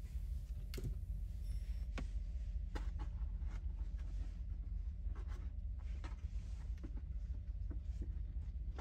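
Small file scratching the surface of a toy's axle in short, irregular strokes, roughening it so glue will bond a gear to it, over a steady low hum.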